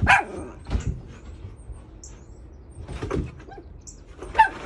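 A dog barking: about four short barks spread across a few seconds, with pauses between them.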